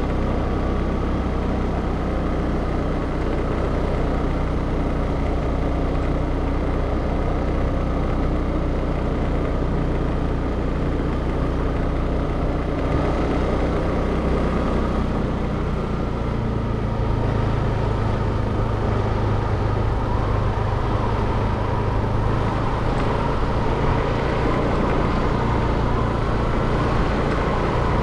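A motor vehicle's engine running steadily, with a low hum whose pitch shifts about sixteen seconds in.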